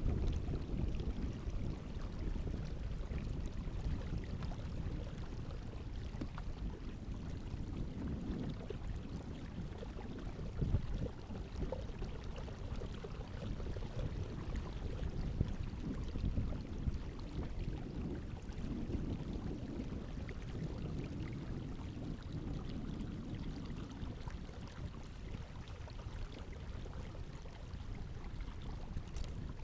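Water sloshing and lapping around a kayak, with a steady low rumble underneath.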